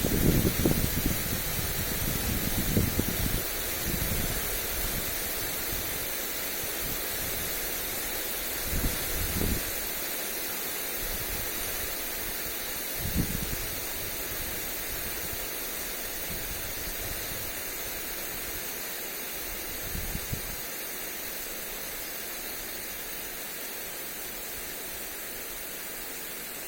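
Lawn sprinkler spraying water onto grass, a steady hiss. Gusts of wind rumble on the microphone, several in the first few seconds and single ones about 9, 13 and 20 seconds in.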